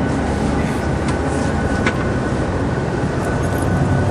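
Steady running noise inside a moving tour bus: engine and road rumble, with a faint constant whine and a single light click about two seconds in.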